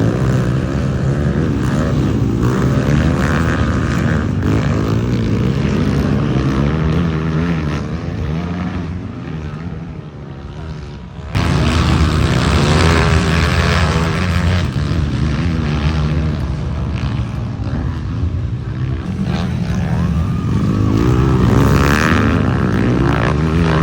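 Several racing motorcycle engines revving hard together, their pitches rising and falling over one another, growing suddenly louder about eleven seconds in.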